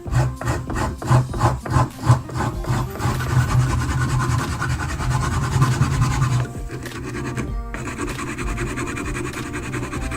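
Rasping strokes of hand abrasive work on the knife, about three a second at first, then a steadier rubbing with a brief pause a little past halfway. Background music plays underneath.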